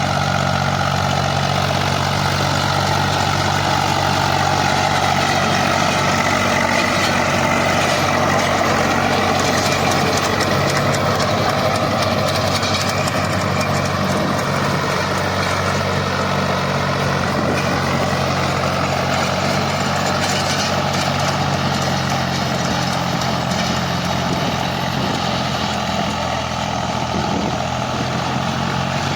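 Tractor's diesel engine running steadily while the tractor works a rotavator through the soil.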